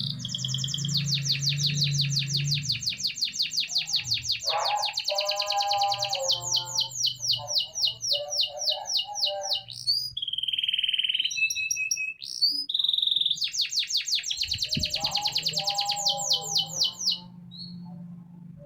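Domestic canary singing: long rapid trills of repeated high notes that change from phrase to phrase, over a steady low hum. The song stops shortly before the end.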